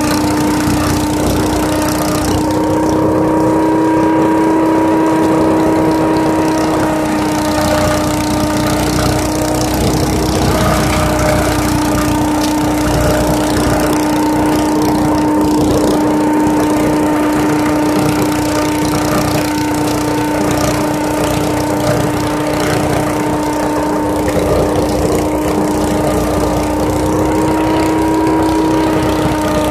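Leaf vacuum running steadily, a constant whine over a rushing noise.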